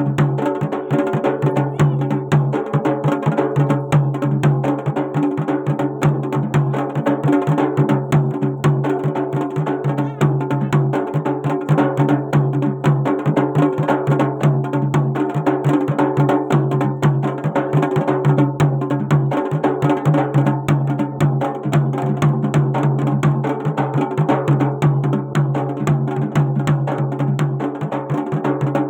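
Garhwali jagar folk music: fast, dense drumming with sharp dry strikes over a steady low drone, without singing.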